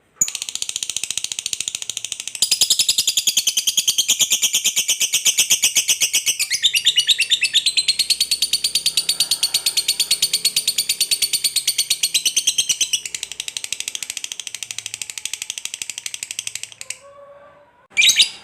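Lovebird giving a long 'ngekek panjang' chatter, the drawn-out call prized in fighter lovebirds: a fast, unbroken run of sharp high notes lasting about seventeen seconds. It gets louder about two seconds in and eases off in the last few seconds. A brief separate call comes near the end.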